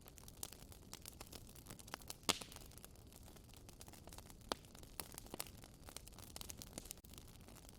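Wood fire in a fireplace crackling: irregular sharp pops and snaps over a soft steady hiss, the loudest pop a little over two seconds in.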